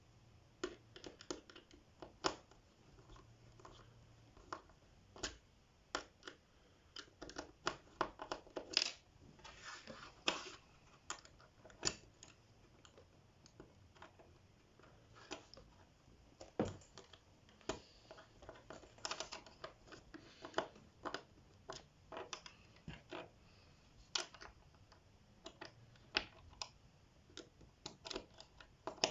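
Irregular small clicks, taps and short scrapes of screws being driven to fasten a plastic door clip onto a wardrobe's particleboard panel, with a few brief scratchy stretches of screw turning.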